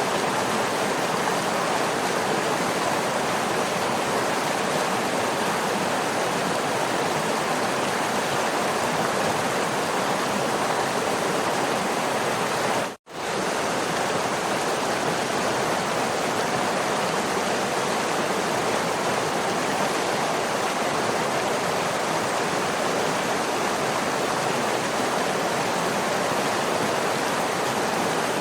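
Waterfall: a steady, even rush of falling water. About halfway through, the sound cuts out for an instant, then resumes unchanged.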